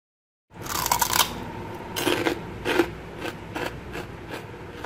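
Close-up chewing of deep-fried crispy pork skin: a crisp bite starts about half a second in, followed by crunches about twice a second.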